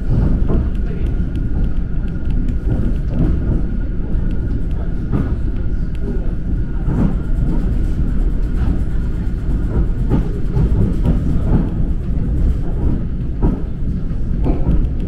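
Suburban electric train in motion, heard from inside the carriage: a loud steady rumble of wheels on the rails, broken by irregular knocks from the running gear, with a faint steady high whine.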